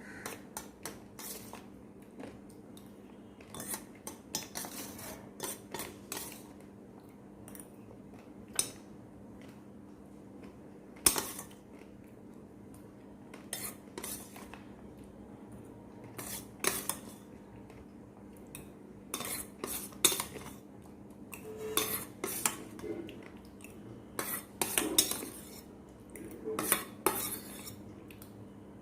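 Utensils clicking and scraping against dishes while eating, in scattered short irregular clicks, over a steady low hum.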